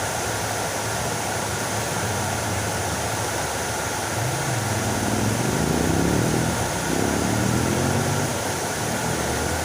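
Fountain water splashing steadily. About halfway through, a low pitched hum rises and falls in pitch over a few seconds and the sound grows slightly louder, then it fades.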